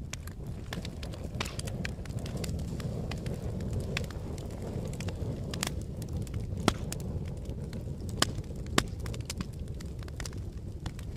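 Wood fire burning with a steady low rumble and irregular crackles and pops, a few sharper snaps standing out about halfway through and again a little later.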